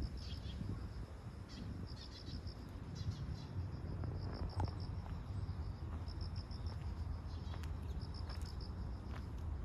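Crickets chirping in short pulsed trills, repeating every second or so, over a steady low rumble and a few faint clicks.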